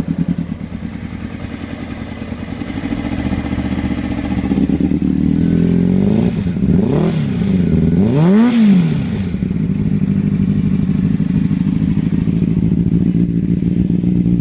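Honda CBR600RR inline-four engine idling with a cylinder misfire, revved up and back down twice midway before settling back to idle. The misfire is on one cylinder, which the owner traced to one of the header pipes.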